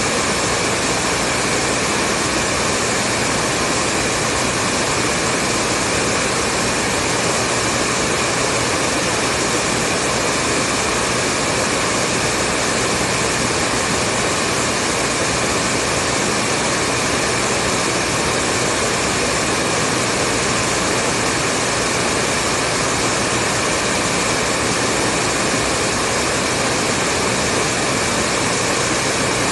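Hair dryer running continuously: a steady, even whoosh of blown air over a motor hum, with no change in speed.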